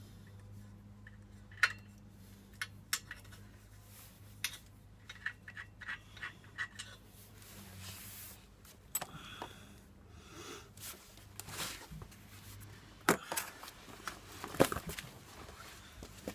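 Metal hand tools and bolts clinking and tapping as a motorcycle's exhaust system is unbolted: scattered sharp clicks and clanks, with a few louder knocks near the end, over a low steady hum that fades about halfway through.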